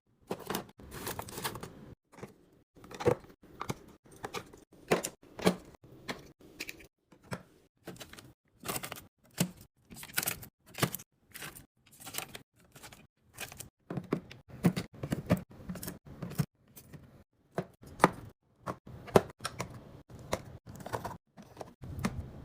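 Food containers and packaged items being handled and set down while restocking a fridge: irregular sharp taps, clicks and knocks, a few a second.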